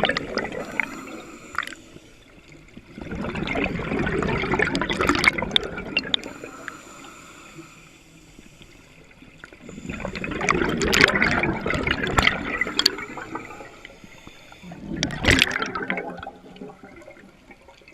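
Scuba diver's exhaled air bubbling out of the regulator, a rush of bubbles every six seconds or so with quieter pauses between breaths.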